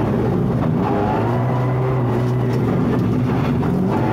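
Rally car's engine at speed, heard from inside the cabin, its pitch climbing, holding and shifting as it revs up and down.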